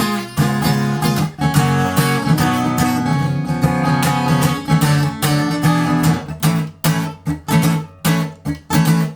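Acoustic guitar strummed in steady chords, an instrumental passage between sung verses, with the strokes turning short and clipped in the last few seconds.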